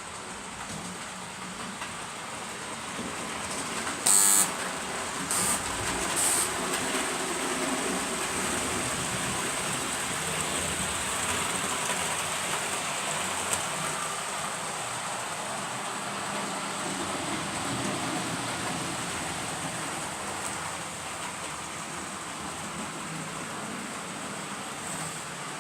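English Electric Class 37 diesel locomotive running light, its engine sound building as it draws near and easing off again as it moves away. Three short, loud blasts come about four to six seconds in.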